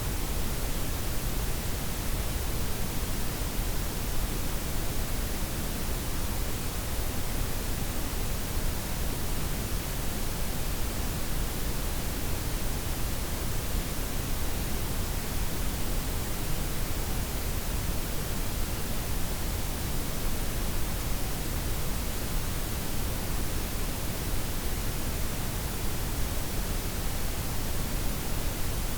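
Steady blend of softened white, pink and brown noise: an even, unchanging hiss with a deep low rumble, its highs gently rolled off.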